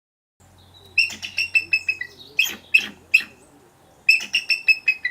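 A bird calling in runs of short, sharp, repeated notes, about five a second, in three bursts: the first starts about a second in, the second follows with a few louder notes, and the third comes near the end.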